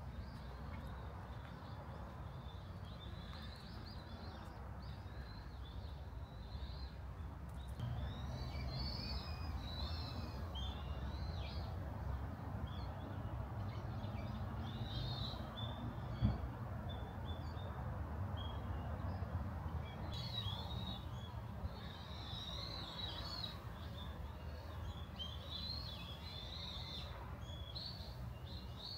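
Small songbirds chirping and twittering in short, repeated calls over a steady low background rumble, with one brief knock about halfway through.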